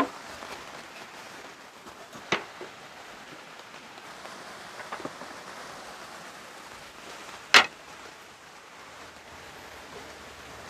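Steady rain falling, with four sharp knocks over it; the loudest comes about seven and a half seconds in.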